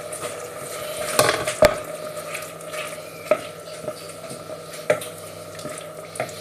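Risotto being stirred in a pan on the hob: a spoon scraping and knocking against the pan a few times, over a steady simmer and background hum.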